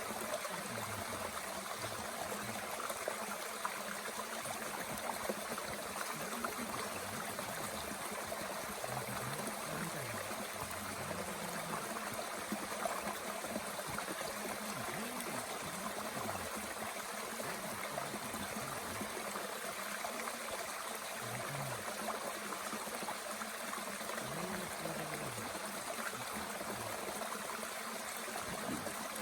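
Mountain stream flowing with a steady rushing and gurgling, with a few faint pops from a small wood fire.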